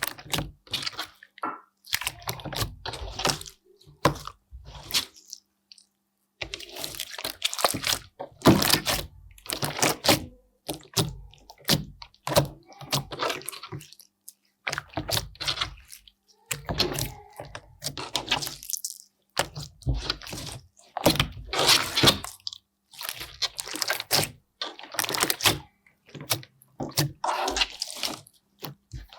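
Slime being squished and worked by hand, with irregular wet clicks and pops in clusters and a brief pause about five seconds in.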